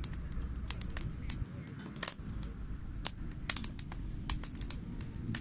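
Wood campfire burning, crackling with frequent irregular sharp snaps and pops over a steady low rumble.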